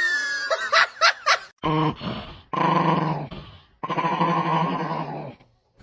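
A dog vocalizing: a high falling whine, a few short yips, then three long drawn-out pitched calls, the last two each lasting well over a second.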